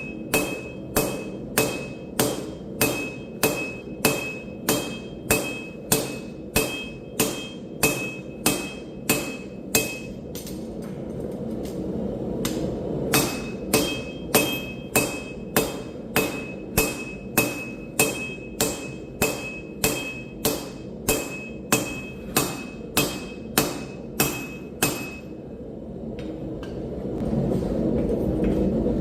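Hand hammer forging hot steel on an anvil, about two blows a second, each blow followed by a high anvil ring. The blows stop about ten seconds in and resume about three seconds later, then stop near the end, when a steady rushing noise swells.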